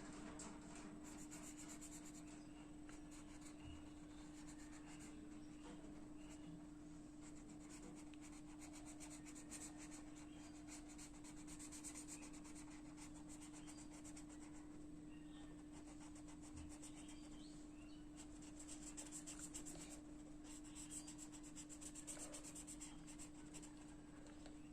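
Faint, rapid scratching of a colouring tool rubbed back and forth on paper, shading an area in blue, in runs that stop and start. A steady low hum runs underneath.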